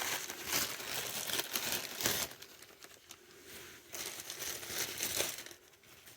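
Plastic sheeting crinkling and rustling under hands working at an oil boiler's fuel filter, in uneven spells with a short lull partway through.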